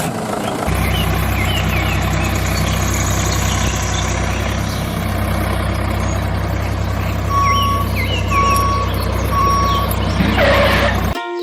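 A vehicle engine running with a steady low hum, then three reversing beeps about a second apart in the second half, followed by a short hiss just before the sound cuts off.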